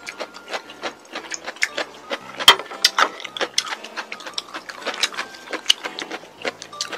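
Crispy-coated chili-pepper fried chicken crunching as it is chewed close to the microphone: a dense run of sharp crackles, the loudest about two and a half seconds in.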